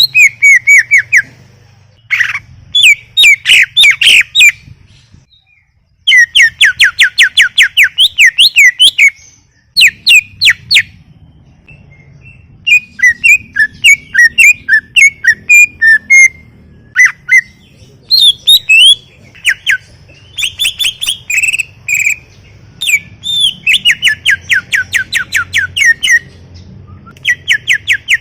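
Greater green leafbird (cucak ijo) in full, continuous song: loud bursts of rapid trilled and whistled notes in varied phrases, broken by short pauses.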